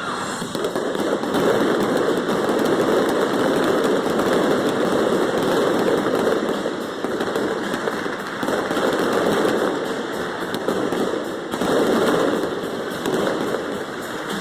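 Fireworks going off in a rapid, continuous barrage of bangs and crackles, easing briefly twice in the second half.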